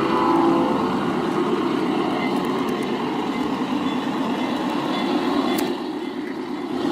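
G scale Dash-9 model locomotive running along a garden railway: the ESU LokSound decoder's diesel engine sound plays through the model's speaker, mixed with wheel and track noise as a steady rumble. The horn sound trails off within the first second, and there is one sharp click about five and a half seconds in.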